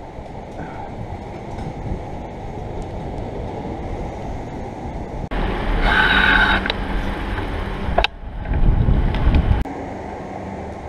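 Low wind rumble on the microphone and road noise from riding a bicycle. It changes abruptly a few times, and there is a brief higher-pitched squeal about six seconds in.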